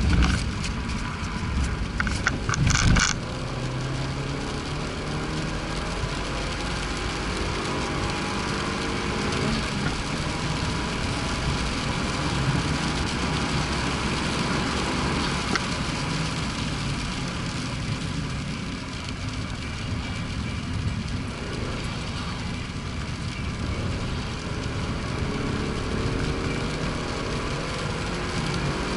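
Turbocharged Abarth car engine running under steady road and wind noise, its pitch rising near the end as it accelerates. A short burst of sharp knocks comes in the first three seconds.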